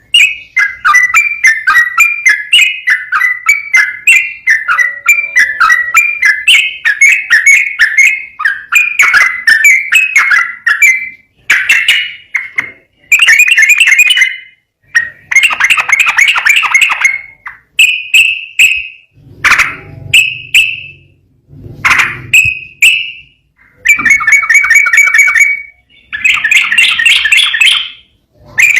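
Yellow-vented bulbul (trucukan) singing loudly in rapid runs of bubbly whistled notes. The song flows almost without a break for the first ten seconds or so, then comes in shorter phrases separated by brief pauses.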